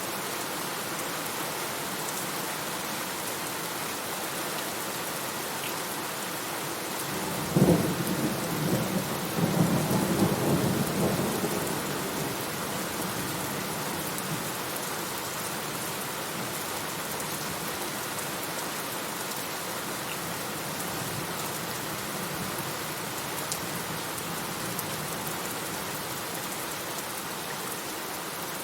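Steady heavy rain with a thunderclap: a sudden crack about a quarter of the way in, then a rumble that swells and fades over a few seconds while the rain goes on.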